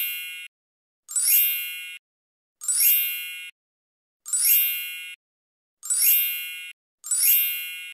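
A bright, chime-like ding sound effect repeated about every one and a half seconds, six times in all. Each ding rings and fades over nearly a second, with dead silence between.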